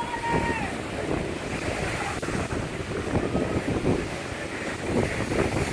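Waves of Okanagan Lake, high with the 2017 flood, washing onto the beach in uneven swells, with wind buffeting the microphone.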